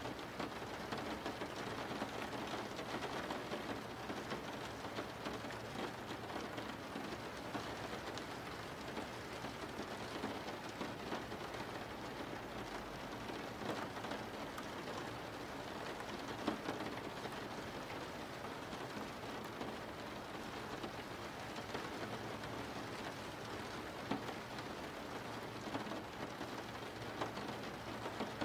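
Steady rain falling: an even hiss of rain with scattered faint ticks of single drops.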